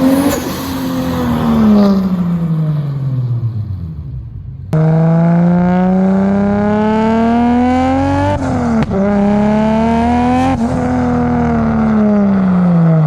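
Modified Toyota Supra Mk4 accelerating hard past in two flybys. First its engine note falls away as it passes. Then, after a cut, the revs climb through the gears with two quick shifts, and the note drops as the car goes by.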